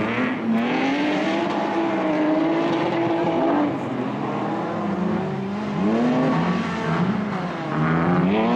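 Rally car engine at high revs, its pitch climbing and dropping several times as the car shifts gear and lifts off for corners.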